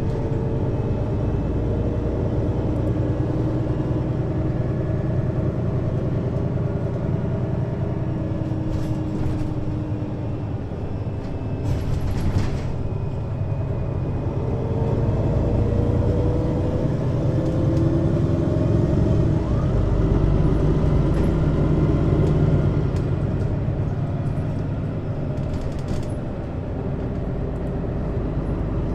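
2003 Mercedes-Benz Citaro city bus with a ZF Ecomat 2 automatic gearbox, heard from above the engine while driving. The engine note rises in pitch and gets louder through the middle as the bus pulls, then eases off. A few short clicks come about a third of the way in.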